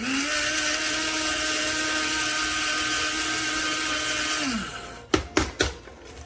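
Black+Decker One Touch blade coffee grinder with a 150-watt motor and stainless steel blades, spinning up sharply and running at a steady high whine for about four and a half seconds, then winding down. Three sharp knocks follow shortly after.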